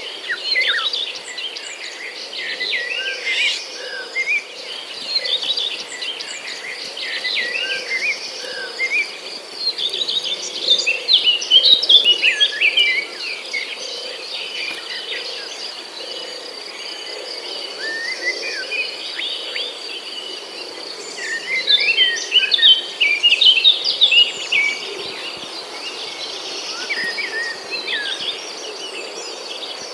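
Songbirds chirping and twittering in busy bursts, strongest about a third of the way in and again past two-thirds, over a steady high insect drone.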